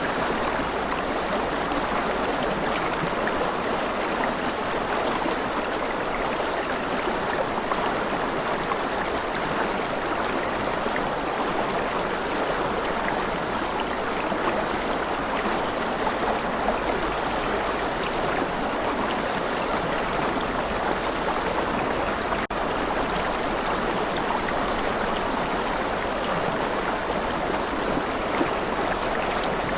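River water rushing steadily over rocks, a continuous even flow.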